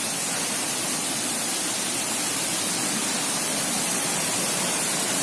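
A waterfall's steady rush of falling water, an even hiss with no breaks.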